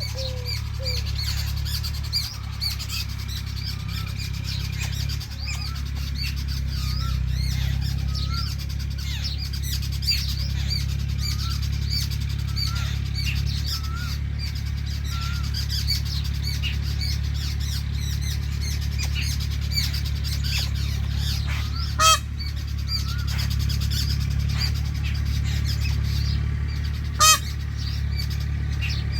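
Many birds chirping and calling steadily over a low, even rumble, with two short, loud calls standing out, one about two-thirds of the way in and one near the end.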